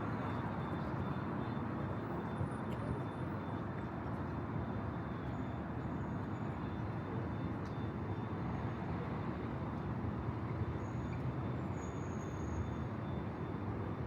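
Steady street traffic noise: cars and other vehicles running along a city road, an even rumble without breaks.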